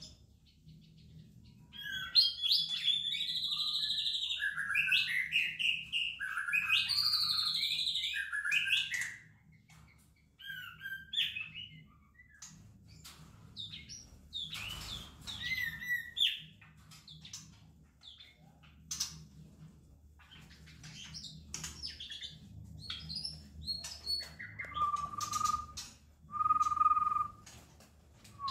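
White-rumped shama (murai batu) singing: a long run of varied whistled phrases with quick pitch glides, then scattered shorter calls and clicks, and two held whistles near the end.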